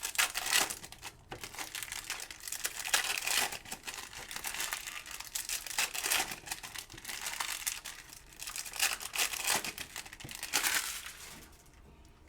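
Trading-card pack wrappers crinkling and rustling continuously as packs are torn open and the cards are handled. The noise dies away about a second before the end.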